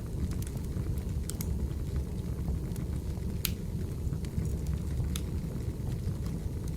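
Wood fire burning with a steady low rumble, firewood popping and crackling every second or so; the loudest pop comes about halfway through.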